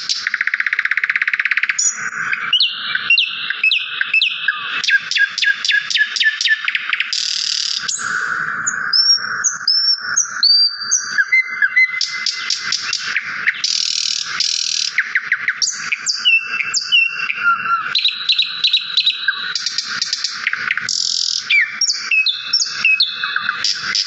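Songbird song with no break: fast trills, runs of chirps and short whistled, sweeping notes, the phrase changing every second or two.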